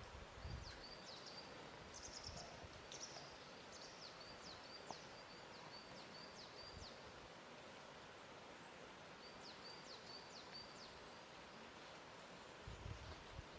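Faint lakeside ambience: a soft, even hiss with small birds chirping in quick, high, repeated notes that pause about halfway through and then return briefly. A few soft, low thuds of water lapping come near the start and near the end.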